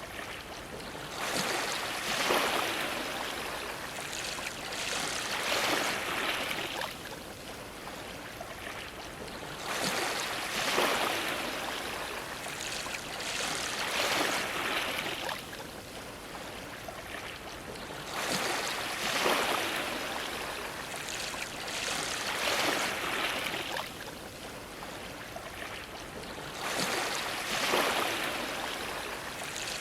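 Ocean waves washing against a dock: a steady wash of water that swells into a louder splash every four to five seconds as each wave comes in.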